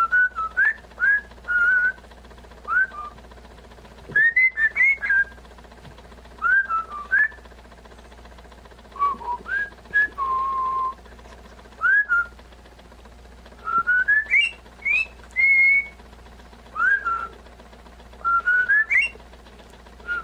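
Pet parrot whistling: short rising whistle notes in quick clusters with pauses between them, and one longer, lower held note partway through.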